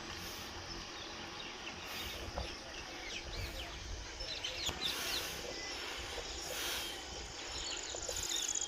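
Birds chirping in short calls about halfway through, over a steady outdoor background hiss, with a high, rapid trill starting near the end.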